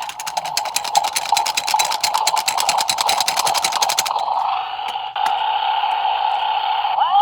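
Fisher-Price Shake 'n Go Rex toy car's electronic engine sound from its small speaker, with a fast clicking rattle over it for about four seconds, then a steady hum, and a rising tone near the end.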